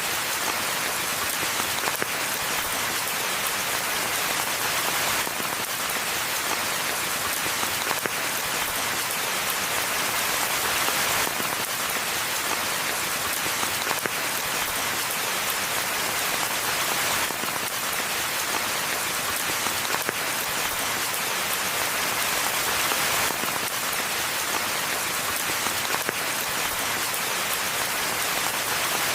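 Steady rainfall: a dense, even hiss of rain with scattered individual drop ticks.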